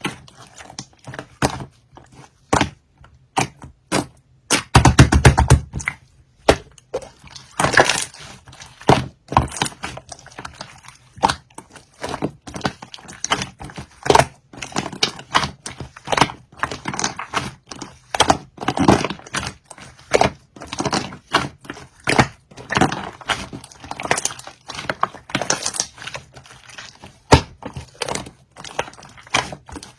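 Slime being squished and pressed by hand, giving irregular clicking pops and squelches, with a quick run of rapid crackling pops about five seconds in.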